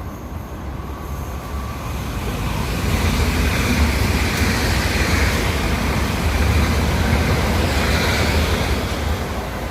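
Train passing, its rumble and wheel noise growing louder over the first few seconds and then holding steady.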